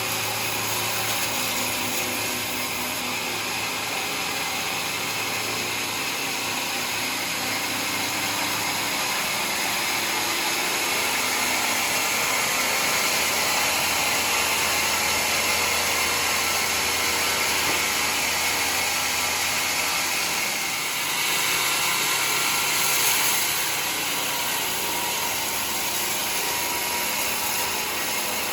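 Homemade sawmill running and cutting through mahogany: a steady, hissing machine noise that grows a little louder through the middle, with a brief swell near the end.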